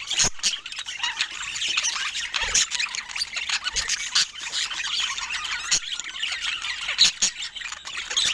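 Budgerigars chattering and warbling continuously in a dense stream of quick high chirps and squeaks, with a few sharp clicks mixed in.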